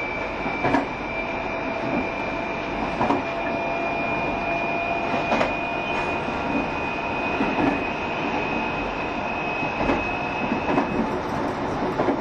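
A JR Shikoku 7200 series electric train running at speed, heard from inside the car: a steady rumble with a wheel click over a rail joint about every two seconds. A thin high whine rises slightly and stops near the end.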